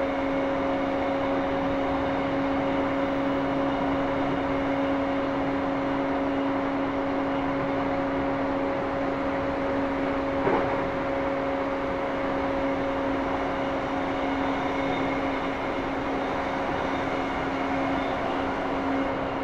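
Running noise inside a JR East E235-1000 series electric train's motor car, cruising: a steady rumble of wheels on rail with a hum that holds one pitch, and a single brief knock about ten seconds in.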